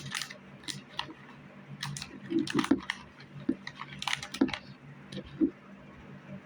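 Irregular clicks and knocks of small objects being handled and packed into a basket-like container, in a few quick clusters that stop about five and a half seconds in. A steady low hum runs underneath.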